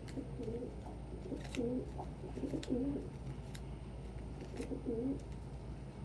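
Domestic pigeon cooing, four low, warbling coos spread across a few seconds, over a steady low hum.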